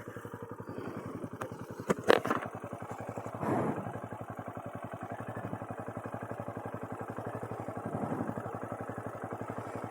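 Motorcycle engine running steadily at low revs, its firing pulses rapid and even, with a short louder knock about two seconds in.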